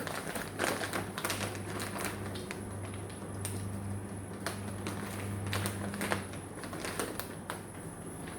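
Uncooked rice grains being scooped and poured into a pot: a patter of small irregular clicks, densest in the first couple of seconds and then more scattered. A steady low hum runs underneath and stops about six seconds in.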